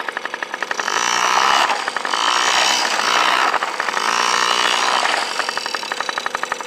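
Dirt bike engine revving hard, rising and falling in about three surges as the rider spins the bike round in a donut.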